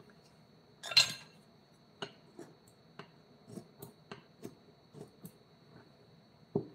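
A series of light, irregular knocks and taps, with a sharp click about a second in and a louder dull thump near the end.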